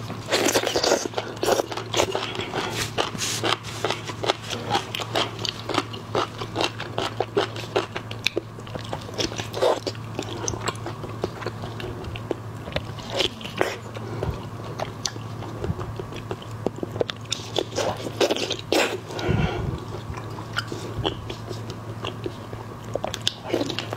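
Close-miked wet biting and chewing of raw scallop and shellfish: many small sticky clicks and squelches of the mouth, over a steady low hum.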